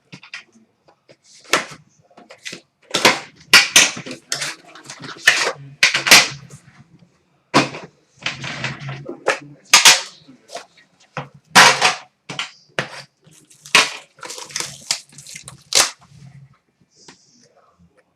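Sharp, irregular snaps and clicks, with short bouts of crinkling, from the packaging of a hockey card tin being handled and opened.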